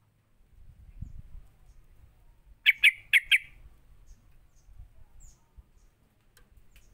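Yellow-vented bulbul calling: a quick burst of four sharp, harsh notes about three seconds in.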